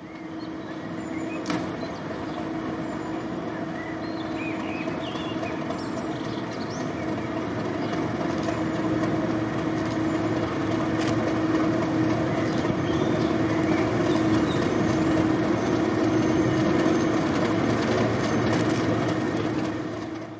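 Diesel locomotive engine running under power with a steady droning note, growing gradually louder as it approaches.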